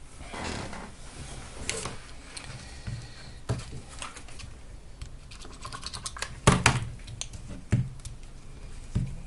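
Irregular small clicks, taps and knocks of battery cells and plastic parts being handled on a workbench, with a quick run of light clicks a little past the middle and the loudest knock at about six and a half seconds.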